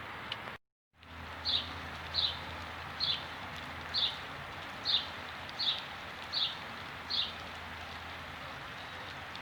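Steady hiss of soft rain falling in a garden, with a brief cut to silence about half a second in. Over the rain a bird calls eight times in a regular series, short high notes each dropping slightly in pitch, about one every three-quarters of a second.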